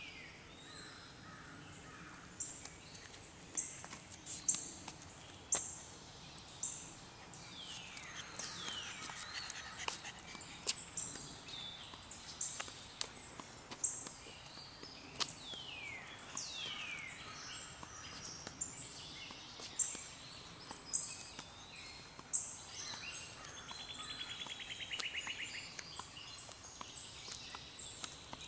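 Several songbirds calling in the woods: repeated short high chirps, a few long calls that slide steeply downward, and a fast buzzy trill about 25 seconds in.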